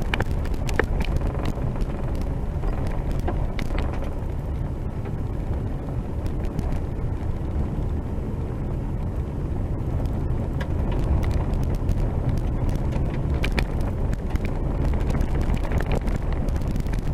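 Vehicle driving on a rough dirt road: a steady low rumble with scattered knocks and rattles.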